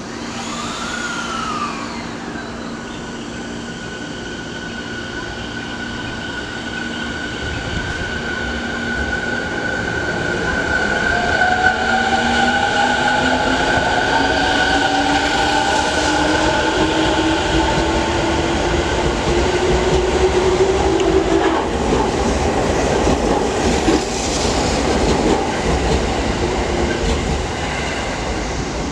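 JR East 209-500 series electric train accelerating away from a station. Its motors whine in several tones that climb slowly in pitch over the rumble of the wheels, which grows louder about ten seconds in. A few knocks of the wheels over rail joints come near the end.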